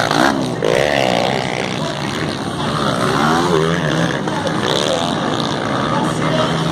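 Several motocross bikes' engines revving hard, their pitch sweeping up and down again and again as the riders open and close the throttle and shift, the sounds overlapping from more than one bike.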